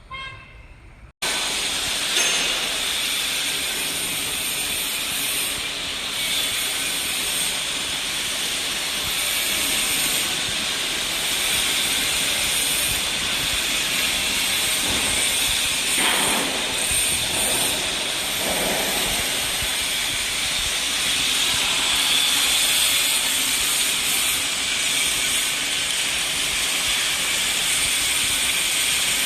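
Fibre cement board production line machinery running with a loud, steady hiss, starting abruptly about a second in.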